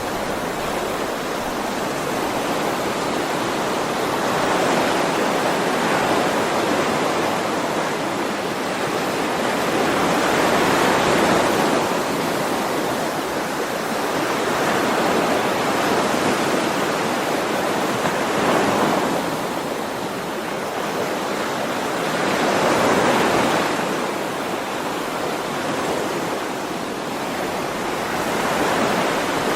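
Ocean surf washing onto a shore: a steady rush of breaking waves that swells and eases every several seconds.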